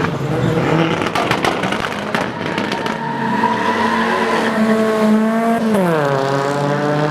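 Car engine held at high revs during a burnout, with tire squeal; the revs drop sharply about six seconds in. Sharp pops or cracks sound around one to two seconds in.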